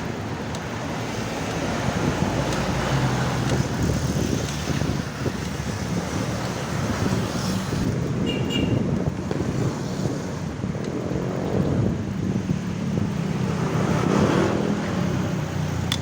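Road traffic and engine noise heard while riding along a city street, with wind buffeting the microphone. A short high chirp sounds briefly about eight seconds in.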